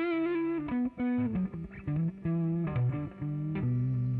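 RJ Ironbird electric guitar played with a mellow tone in a blues single-note lick: it opens on a held, wavering note, runs down through quick notes, and settles on a long, low sustained note near the end.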